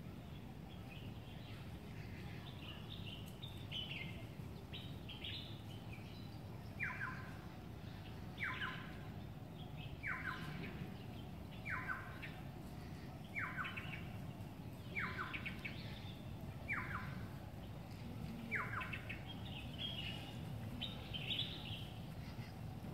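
Wild birds calling in woodland. One bird repeats a single call that drops sharply in pitch, about once every second and a half, eight times in a row, while others give higher chirps before and after. A steady low background noise runs underneath.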